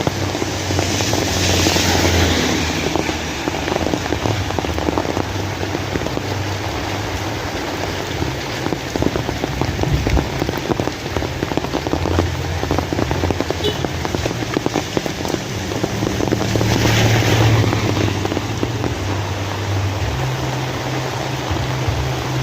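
Rain falling steadily, a dense hiss of drops pattering on surfaces, under a low hum. The hiss swells louder about two seconds in and again near seventeen seconds.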